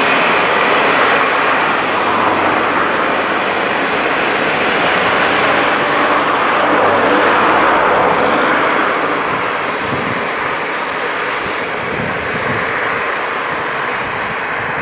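Passenger train rolling away on the line, a steady rushing noise that eases a little from about two-thirds of the way through, mixed with flowing water from the stream.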